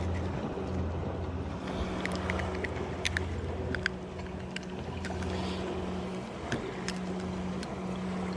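A motor running with a steady low hum under a wash of background noise, with scattered light clicks and taps on top.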